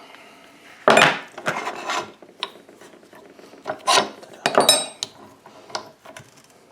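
Handling noise as a wooden workpiece is fitted onto a mini lathe: irregular bursts of scraping and rubbing of wood against metal parts, the loudest about a second in, with a brief metallic clink about four and a half seconds in.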